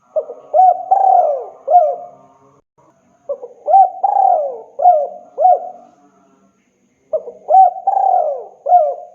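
Spotted dove cooing: three phrases of several gliding coo notes each, a couple of seconds per phrase with short pauses between. It is the male's advertising call to a female.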